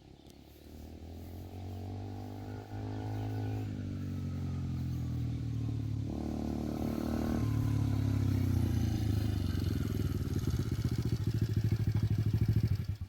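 Motocross bike engine running steadily and growing steadily louder as the bike comes closer, with a faint whine sliding down in pitch over the first half.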